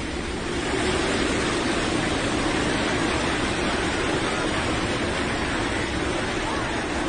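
A steady rushing noise with a faint low hum beneath it.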